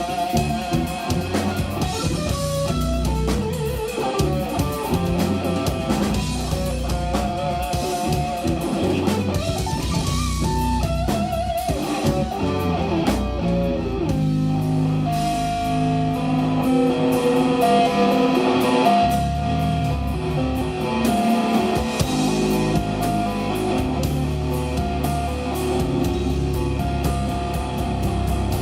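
A live instrumental jazz-rock band playing: a lead electric guitar over bass guitar and drum kit. The early guitar lines waver in pitch; from about halfway through the guitar holds longer, steadier notes.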